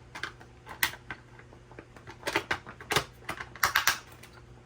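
Irregular clicks and taps of plastic parts being handled and pushed into place on a small RC truck, several in quick clusters.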